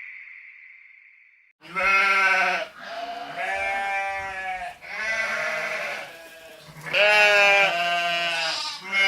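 Sheep bleating: four or five bleats in a row, starting after a short silence about two seconds in.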